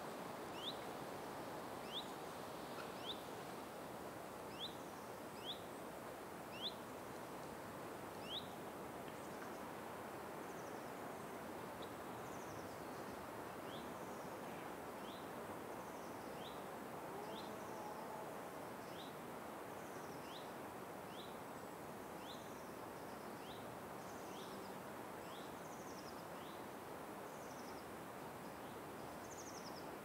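A bird repeating short rising chirps about once a second, loudest in the first eight seconds and fainter after. Fainter, higher calls join later, over a steady background hiss of forest ambience.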